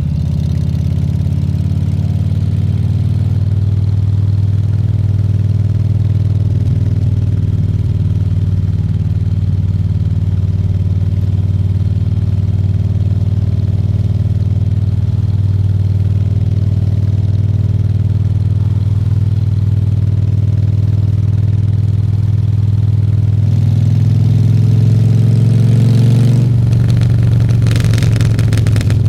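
Harley-Davidson Fat Bob 114's Milwaukee-Eight 114 V-twin running steadily under way; its pitch climbs a little about three-quarters through, then drops in a shift, with a rush of noise near the end.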